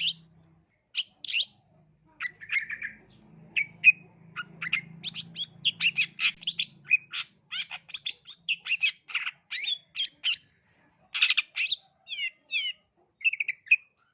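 Long-tailed shrike (cendet) singing: a fast, dense run of sharp chirps and harsh calls, with a few short pauses.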